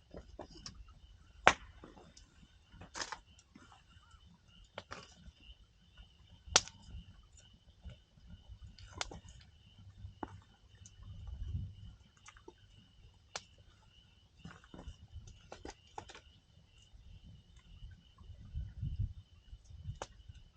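Wood campfire crackling with irregular sharp pops, two of them much louder snaps, and a couple of low rumbling swells, over a steady high insect trill.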